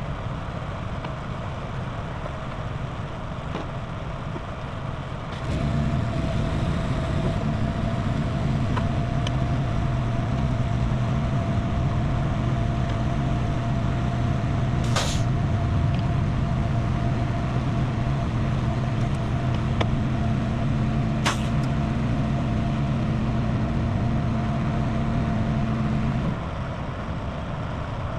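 A heavy truck idles. About five seconds in, a second engine starts running at a steady pitch with a thin constant whine, and it stops abruptly near the end. Partway through there are two short, sharp air hisses.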